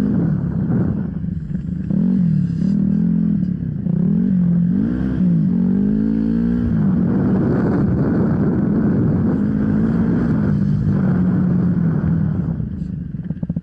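Off-road enduro motorcycle engine under way, its revs rising and falling several times in quick succession, then holding steadier before easing off near the end.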